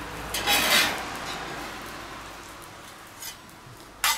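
Bacon and onions sizzling in a small cast-iron pot over charcoal. The sizzle swells about half a second in and then dies down slowly. A metal utensil clinks against the pot near the end.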